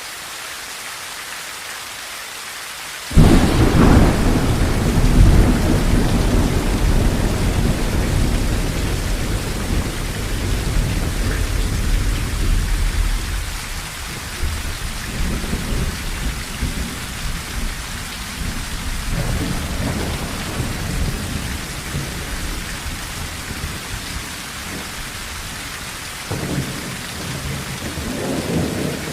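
Steady rain drumming on a tin roof. About three seconds in, a sudden thunderclap breaks into a long low rumble that dies away over about ten seconds, and weaker rolls of thunder follow later and again near the end.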